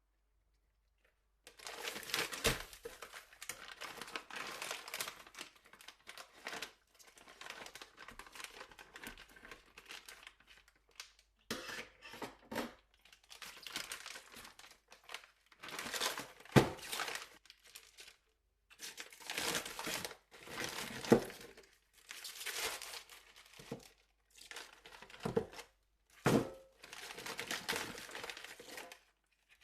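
Plastic bag crinkling and rustling in on-and-off bursts as it is handled, with a few sharp knocks.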